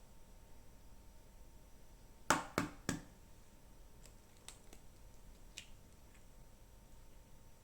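Three quick, sharp taps of hard objects knocking together, about a third of a second apart, followed by a few faint scattered clicks, as in kitchen handling during baking.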